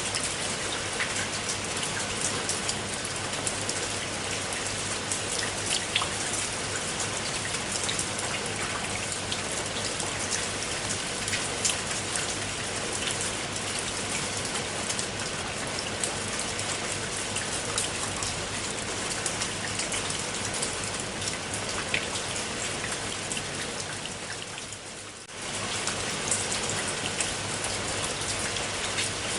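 Steady rain falling, a dense hiss scattered with the ticks of single drops. Near the end it briefly fades down, then comes back all at once.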